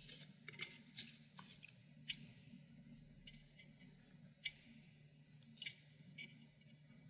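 Irregular, sharp little clicks and ticks of small fan parts being handled, about a dozen of them, over a faint low steady hum.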